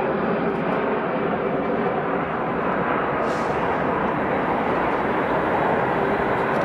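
Jet airliner engines running as a steady, loud, even roar; plausibly the Thai Airways Airbus A380's four Rolls-Royce Trent 900 turbofans.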